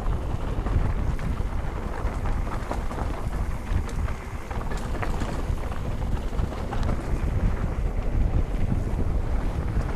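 Wind buffeting the microphone during a fast mountain-bike descent, over the rumble of the tyres and scattered clicks and rattles of the bike on the rough road.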